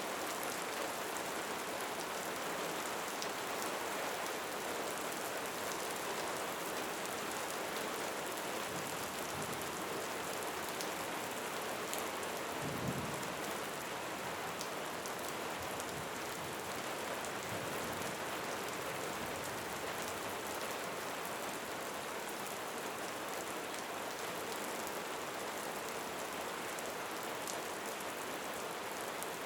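Steady rain falling and pattering on surfaces, an even hiss with fine drop ticks throughout. A brief low rumble rises and fades about halfway through.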